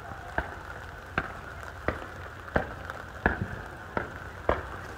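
Fireworks being fired in a regular sequence: about seven sharp reports, roughly one every 0.7 seconds, over a steady hiss.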